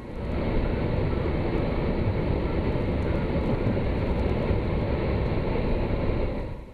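Snow plow truck running: a steady, even noise of engine and road, heaviest at the low end.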